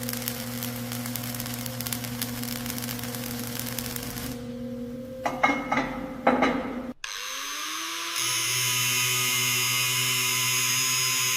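Power tools running: a steady motor hum with hiss and a few clattering knocks, then an abrupt change about seven seconds in to another tool spinning up with a rising whine and running on steadily.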